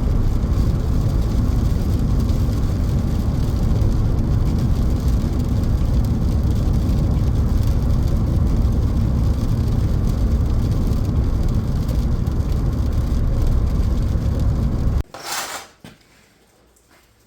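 Steady low rumble of a car on the road. It cuts off suddenly about fifteen seconds in, and a brief clatter follows.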